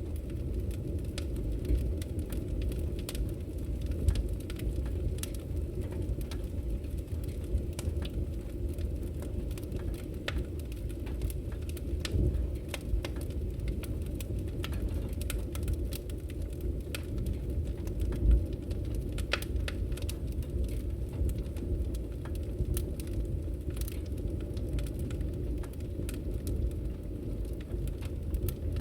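Wood fire burning in a fireplace: a steady low rumble with irregular sharp crackles and pops from the burning firewood, a slightly louder pop about 18 seconds in.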